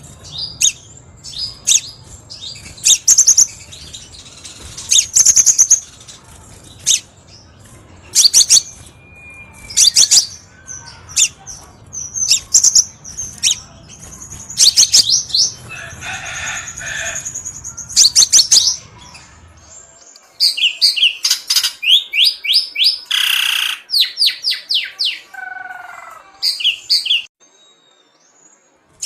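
Crimson sunbird song: loud, high, sharp chirps and short rapid trills repeated in bursts, turning into a denser run of quick notes about two-thirds of the way through.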